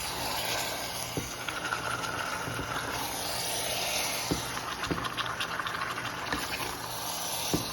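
Country chicken cooking in a pan, sizzling in a steady hiss with scattered crackles and a few soft knocks.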